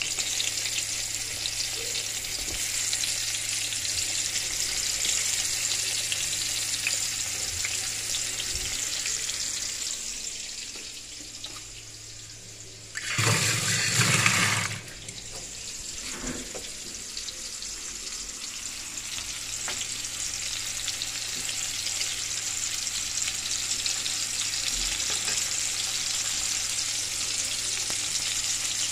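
Pumpkin slices sizzling in hot oil in a wok, a steady hiss. About halfway through the sizzle fades and a tap runs into a steel sink for about two seconds, louder than the frying, then the sizzle returns.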